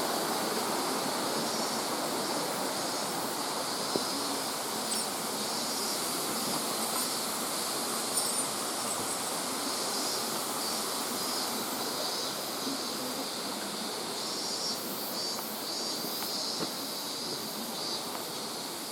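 Steady rush of a mountain stream's flowing water, easing slightly near the end. A few faint clicks from the video camera's loose monitor rattling.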